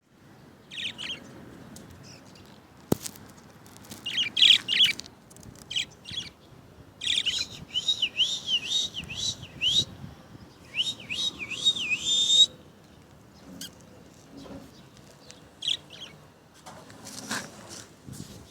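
Budgerigars chirping in short bursts, with a run of quick, wavering warbled chirps in the middle.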